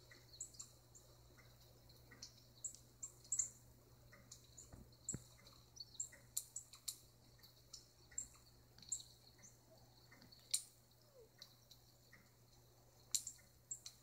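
Small birds chirping: short, high calls scattered irregularly, faint, played through a tablet's small speaker.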